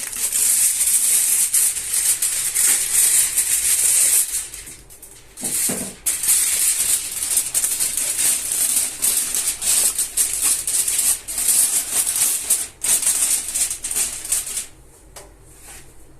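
Steady hissing and sizzling from the pot of pulao cooking on the stove, with short breaks about four and a half and six seconds in, dying down near the end.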